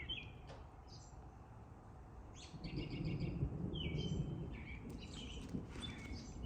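Small birds chirping over and over, with a low rumble of distant thunder swelling about two and a half seconds in and easing after a couple of seconds.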